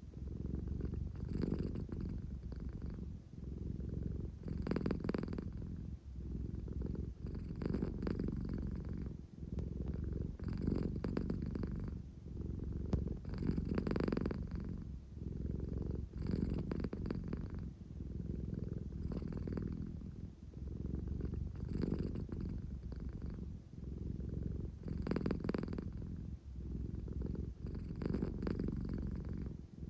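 American Shorthair cat purring, the purr swelling and easing with each breath about every two to three seconds. It is the purr of a sleepy cat wanting affection.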